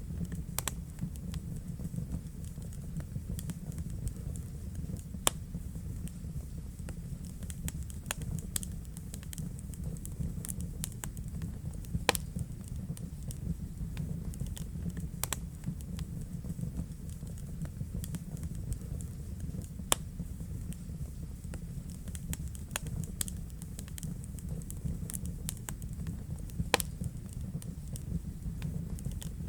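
Wood fire burning in a fireplace: irregular sharp crackles and pops over a steady low rumble of the flames, with a handful of louder pops scattered through.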